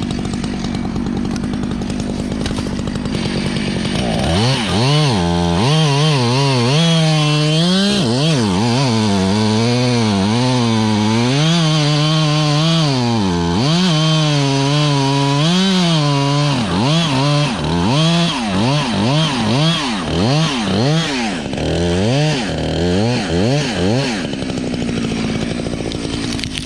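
Two-stroke chainsaw idling, then revved from about four seconds in, its engine note rising and falling over and over as the throttle is worked through the cut. Quicker short revs come in the latter part, and it settles back to a steady idle near the end.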